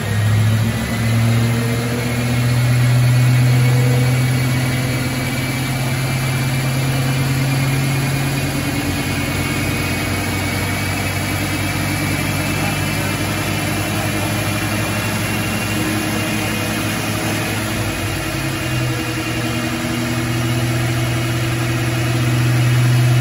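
A 1994 Ford Mustang GT's stock 5.0-litre V8 idling steadily on a chassis dyno, swelling in level about three seconds in and again near the end.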